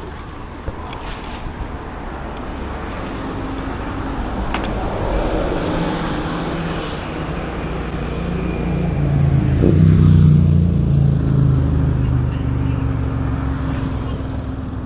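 Road traffic: a motor vehicle's engine hum builds to its loudest about ten seconds in, then fades, with a single sharp click about four and a half seconds in.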